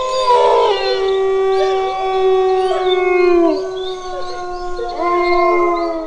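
Dogs howling together, several voices holding long, overlapping notes at different pitches, one note sliding down and fading about three and a half seconds in and a fresh howl starting near the end.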